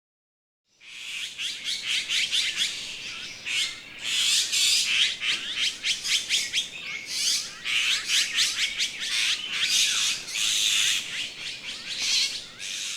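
Small birds chirping and chattering in rapid, high, overlapping notes, starting about a second in and running on in dense clusters.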